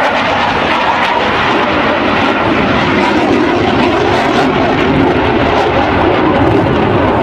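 Loud, steady jet noise from a Dassault Rafale in flight, its two Snecma M88 turbofans.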